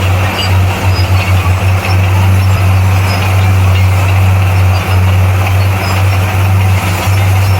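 Heavy diesel engine of earthmoving machinery running steadily, a loud deep drone with a rough rumble over it.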